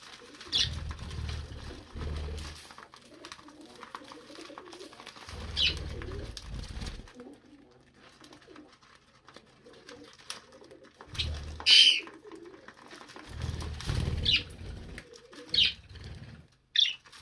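Budgies calling: about six short, sharp chirps, the loudest about twelve seconds in, over faint low chatter. Several bursts of low rumble, each about a second long, come and go between the calls.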